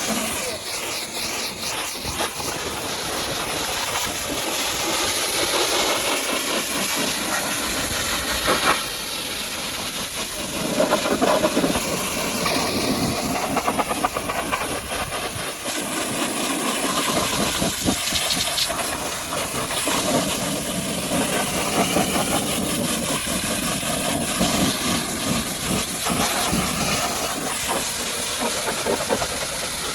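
High-pressure washer jet spraying water onto a muddy truck: a continuous rushing spray whose level and tone shift as the jet moves over different surfaces.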